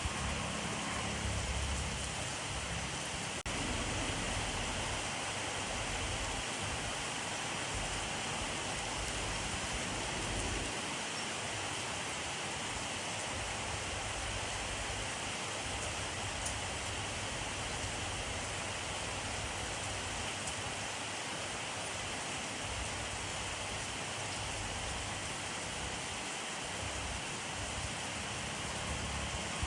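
Steady rainfall, an even, unbroken hiss of rain falling on surfaces.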